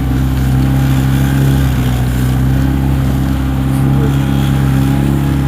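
Outboard motor of an inflatable sports boat running steadily under way, a constant low engine note over wind and water noise.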